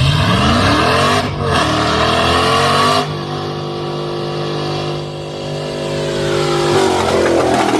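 Truck engine revving hard: it climbs quickly twice, holds at high revs, drops back about three seconds in to a steady lower speed, then rises again near the end.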